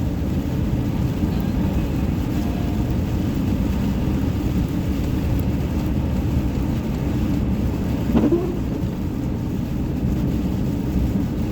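Steady low rumble of a car's road and engine noise, heard from inside the cabin while driving. About eight seconds in there is a brief louder sound with a short rise in pitch.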